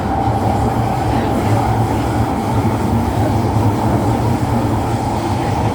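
Siemens C651 MRT train running along the line, heard from inside the carriage: a steady, even running noise with a low rumble and a constant higher tone.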